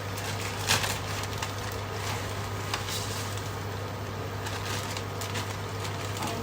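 Meat frying in hot oil in a pan: a steady sizzle with scattered pops and crackles, over a constant low hum.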